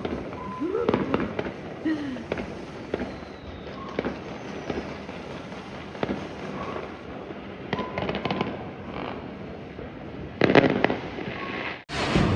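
Fireworks going off in the distance: scattered single bangs and crackles over a steady background, with a denser cluster of bangs near the end before the sound cuts off abruptly.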